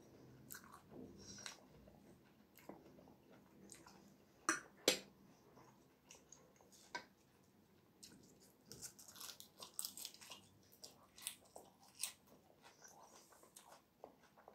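Quiet close-up chewing and biting of food, with scattered sharp little clicks and crunches.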